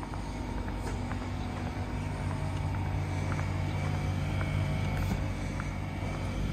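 Alstom Euroduplex high-speed trainset standing at a platform, its power car giving a steady electrical and fan hum made of several fixed tones, with a deeper hum coming in about two seconds in and a few light ticks.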